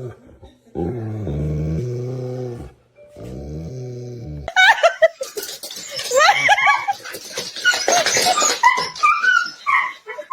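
A dog making two long, low, grumbling howl-like calls that bend in pitch, as if answering back. About halfway through, these give way to a rapid string of high-pitched yips and whines.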